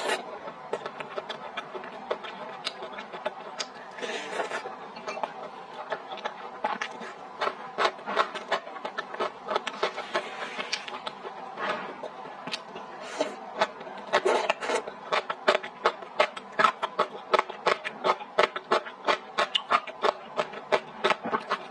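Close-miked chewing of skewered food in spicy sauce: wet mouth clicks and smacks, sparse at first, then quick and louder through the last third.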